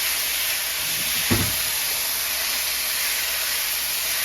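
Ground meat frying in a pan with a steady sizzle, and a single knock about a second in.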